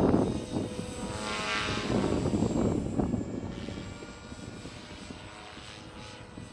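Beam Acro480 electric RC helicopter in freestyle flight: main rotor blades whooshing over the brushless motor's whine. It is loudest as it passes close about one to two seconds in, then fades as it moves away.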